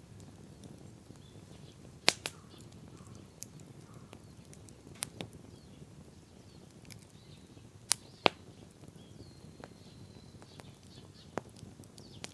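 Wood campfire burning with a steady soft crackle and occasional sharp pops, the loudest a pair about 2 s in and another pair about 8 s in.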